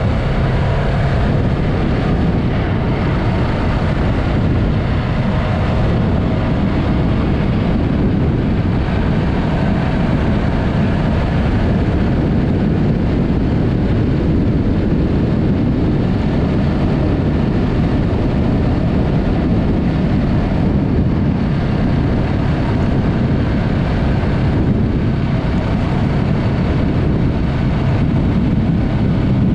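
Yamaha MT-03 parallel-twin engine with a Mivv aftermarket exhaust, running at a steady cruise under heavy wind rush on the camera microphone.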